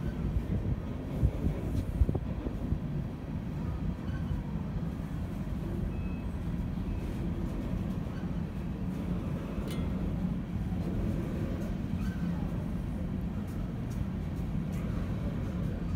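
Loaded coal hopper cars rolling slowly over the rails with a steady low rumble, and a few sharp clanks near the start and once more midway.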